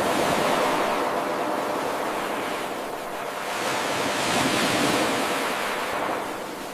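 Ocean surf: waves washing in, swelling at the start, easing off, then surging again about four seconds in before ebbing.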